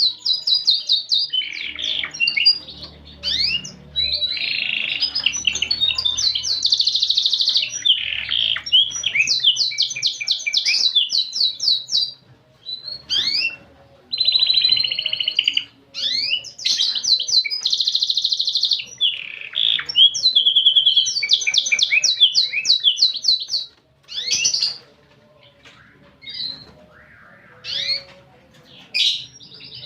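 Domestic canary singing in long runs of fast trills and rapid repeated notes, with short breaks between phrases; after about 24 seconds the song gives way to a few scattered short notes.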